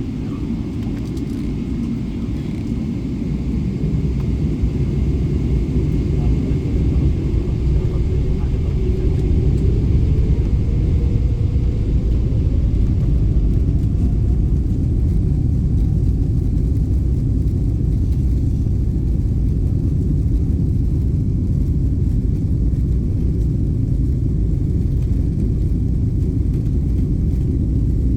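Airliner's jet engines spooling up for takeoff, a loud deep rumble that swells over the first ten seconds or so, with a faint whine rising in pitch partway through, then holding steady.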